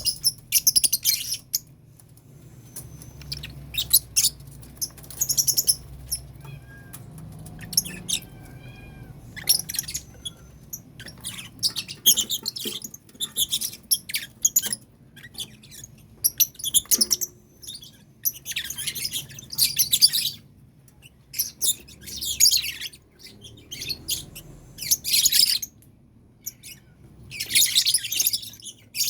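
Lovebirds in a colony cage chattering in short, shrill bursts that come every second or two.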